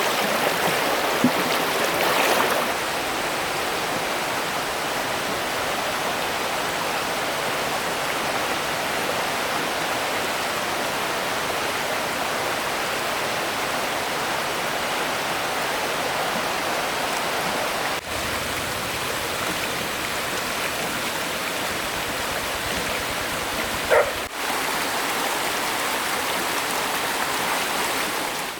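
Stream water rushing steadily, with one short, sharper sound just before the 24-second mark.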